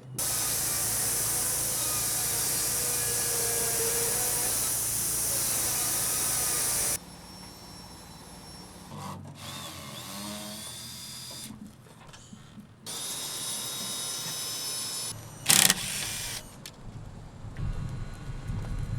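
Power tools running in a series of short cuts: a loud steady whirring for about the first seven seconds, then quieter passages with a high whine, and a single sharp bang near the end.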